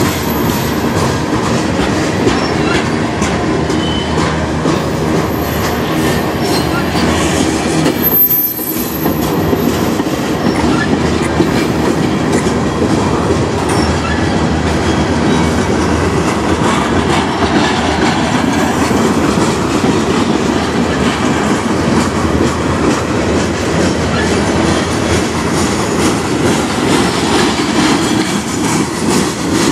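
Freight cars of a CN manifest train rolling past close by, steel wheels clicking over the rail joints in a steady, loud rumble. A few faint high squeals come from the wheels in the first third.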